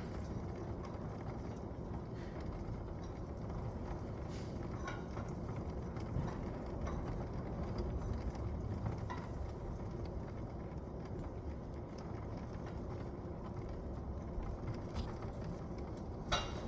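Thunderstorm high wind: a steady rushing noise, heaviest in the low end, with a few sharp knocks scattered through it.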